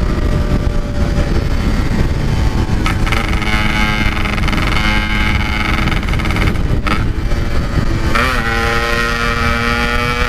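Yamaha RX-King two-stroke single-cylinder motorcycle engine running under way at a steady pitch, through its aftermarket stock-style exhaust. The note breaks off briefly about three and seven seconds in, and rises again about eight seconds in before holding steady. Heavy wind rumble on the microphone underneath.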